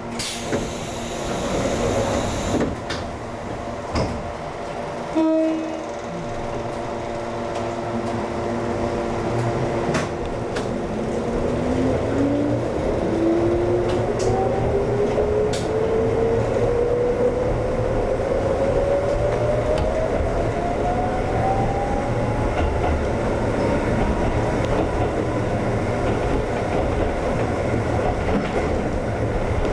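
Kōnan Railway 7000-series electric train (ex-Tokyu 7000) moving off from a station. There is a brief hiss of air at the start and a short horn blast about five seconds in. The motor whine then rises steadily in pitch as the train accelerates, over the running rumble and clatter of the wheels on the rails.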